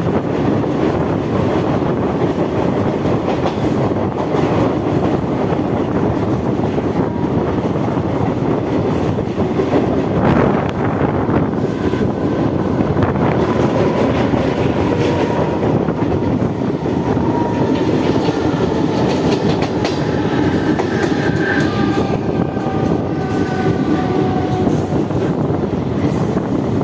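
Mumbai suburban EMU local train running at speed, heard from the side of a coach: a steady rumble and clatter of wheels on rail. From about halfway through, thin, slightly falling wheel squeal comes in as the train rounds the curve.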